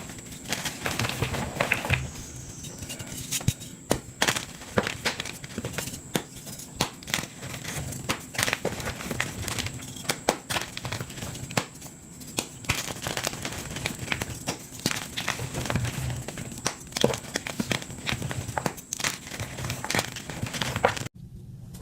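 Dyed gym chalk being crushed, a dense run of dry crunches and crackles as the pressed chalk crumbles. The sound cuts off abruptly near the end.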